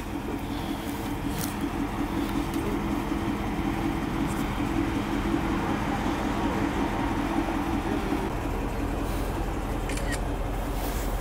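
A car idling: a steady engine hum with a low drone, and a few faint clicks.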